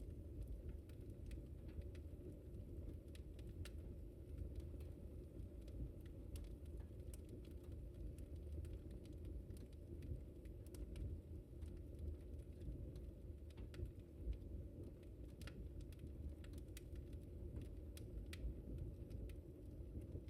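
Wood fire crackling in a fireplace: faint, irregular sharp pops and snaps over a low steady rumble of burning.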